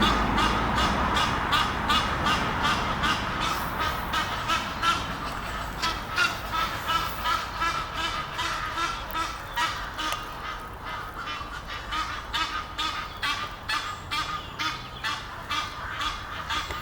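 Egyptian geese calling: a long run of repeated honks, about three a second.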